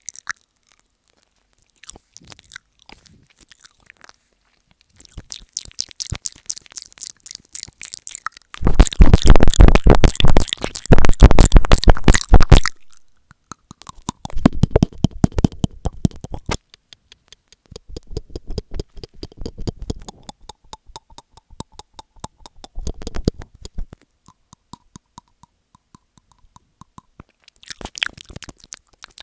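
ASMR mouth sounds made right against an earphone microphone: wet clicks, smacks and kissing sounds in irregular bursts. About a third of the way in there is a very loud, dense stretch of mouthing lasting about four seconds, then shorter, quieter bursts.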